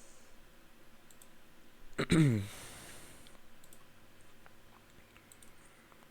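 A few scattered computer mouse clicks, with a short wordless vocal sound, falling in pitch, about two seconds in.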